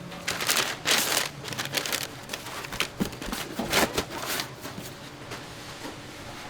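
A quick series of rasping hand-work strokes, about a dozen over four seconds, that then give way to faint handling noise.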